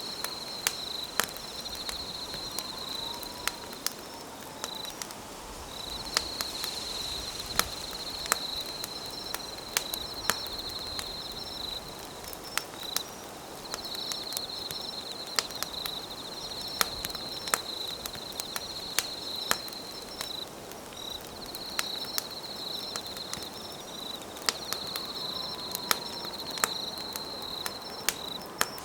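Campfire crackling with sharp, irregular pops over a soft background hiss, while an insect trills in long high-pitched bouts lasting several seconds with short breaks.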